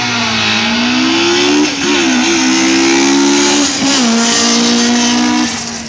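Car engine at high revs, driven hard, holding a steady pitch with a few brief dips as the throttle is lifted, then falling away near the end.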